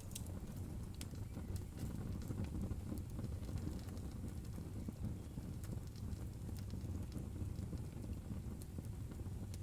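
Wood fire crackling: a steady low rumble of burning with scattered sharp snaps and pops.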